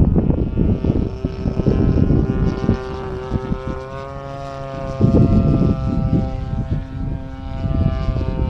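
Single-cylinder two-stroke DLE 35 gas engine of an Aeroworks Extra 260 radio-control aerobatic plane running in flight, its pitch rising a little and then holding steady. Wind buffets the microphone throughout, gusting harder about five seconds in.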